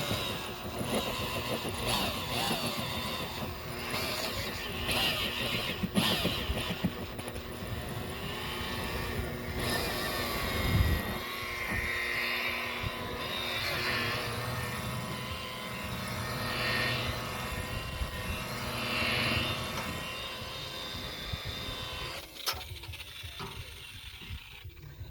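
Rotary buffer running against boat gelcoat, cutting oxidation with a coarse rubbing compound, with a steady motor whine and pad noise. The sound drops away near the end.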